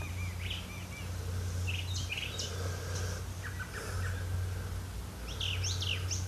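Birds chirping: short, scattered high calls in three clusters, over a steady low hum.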